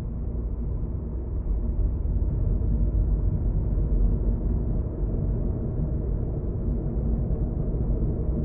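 Steady low rumble of a moving car's engine and tyres, heard from inside the cabin, growing a little louder about two seconds in.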